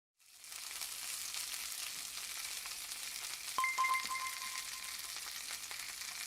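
Thick slabs of pork belly sizzling on a grill over a wood fire, fading in at the start. A few light clicks and a short faint ringing tone come about halfway through.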